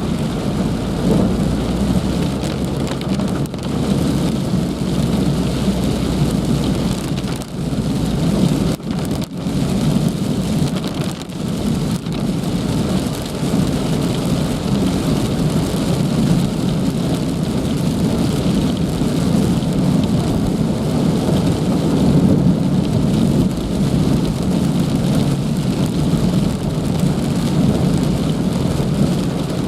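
Heavy rain falling steadily, a dense unbroken patter, with a low rumble underneath for the first several seconds.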